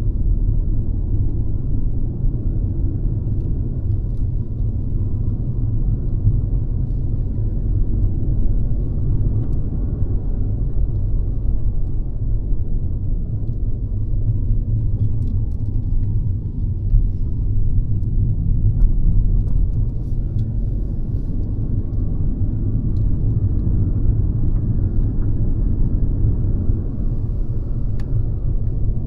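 Mercedes-Benz C-Class (W206) driving along, a steady low rumble of engine and road noise with no change in pace.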